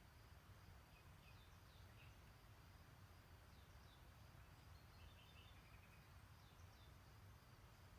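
Faint songbird chirps and trills, with a quick run of short notes about five seconds in, over a steady low rumble.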